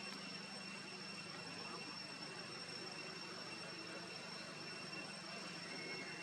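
Steady background hiss with faint, high-pitched, unchanging tones running through it.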